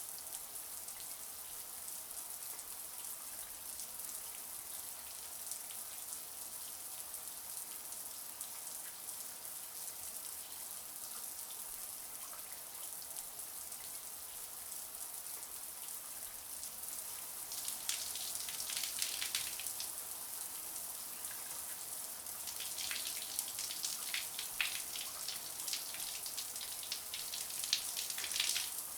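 Shower water running steadily, a high hiss of spray. Twice, a little past halfway and again toward the end, it turns into a louder, denser spatter of drops hitting a surface.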